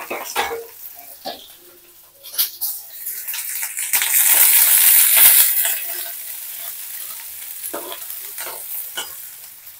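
Chopped onion and capsicum frying in hot oil in a pan, stirred with a spoon. There are a few sharp knocks of the spoon on the pan in the first seconds. The sizzling swells loudly about four seconds in, then settles to a steady sizzle.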